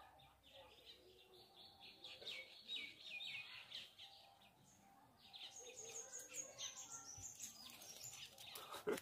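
Faint chirping of small birds: a quick run of repeated chirps in the first few seconds, then thinner, higher chirps through the second half.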